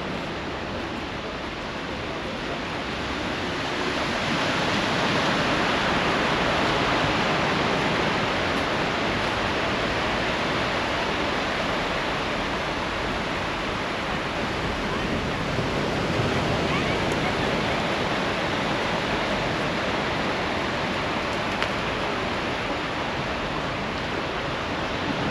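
A steady, loud rush of water that swells a few seconds in and then eases slightly.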